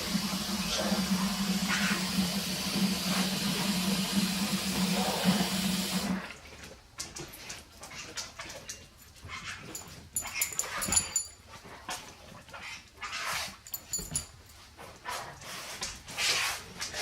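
Puppy whimpering and yipping, over a steady hum and hiss that cuts off suddenly about six seconds in.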